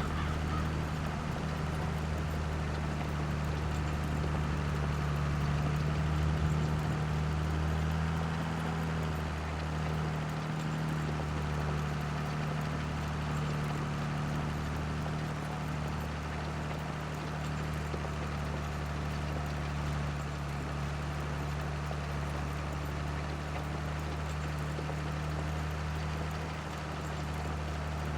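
Tractor engine running steadily at an even speed, its low hum holding without revving up or down.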